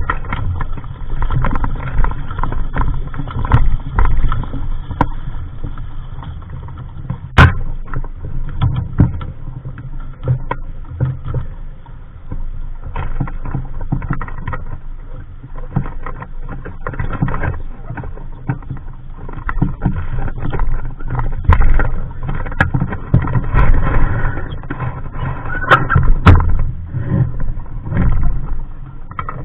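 Knocks and clatter from a Capri Coronado 15 sailing dinghy and its rigging, scattered over a low rumble that rises and falls. One sharp knock comes about seven seconds in.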